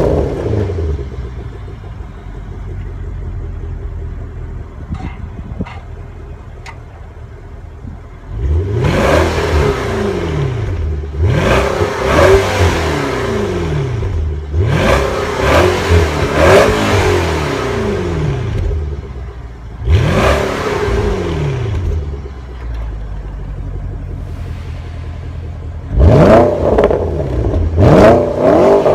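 Porsche Panamera Turbo's 4.8-litre twin-turbo V8, stationary, idling and then revved repeatedly. About six separate revs rise and fall in pitch, followed near the end by a quicker run of short throttle blips.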